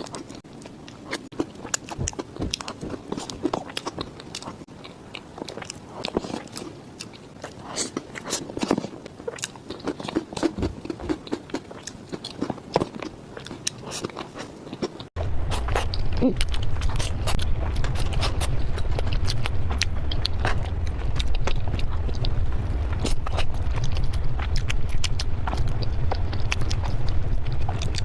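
Close-miked eating of chocolate cheesecake: biting and chewing with many small wet mouth clicks. About halfway through the sound cuts to another clip, where a steady low hum runs under the chewing and it is louder.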